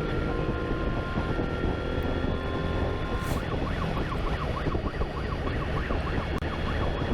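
Police motorcycle siren over the motorcycle's engine and wind noise: a two-tone siren at first, switching about three seconds in to a fast warbling yelp that sweeps up and down several times a second.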